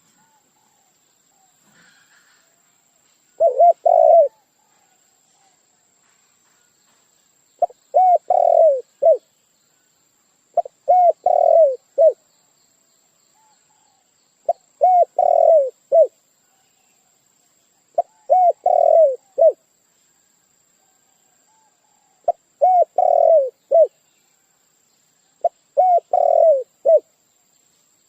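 A dove cooing: seven short phrases of several low cooing notes, one about every three and a half to four seconds. It is a lure call, played to draw in wild doves.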